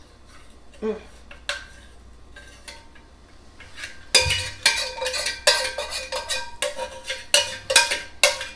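A spoon clinking and scraping against a saucepan as thick strawberry glaze is worked out over the pie. A few scattered clinks come first, then from about four seconds in a quick run of ringing clinks.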